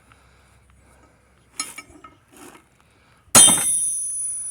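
A hammer blow on the bent metal bracket of a gate-opener arm resting on a small anvil: a few faint clinks, then about three seconds in one loud strike that rings on with a high metallic tone.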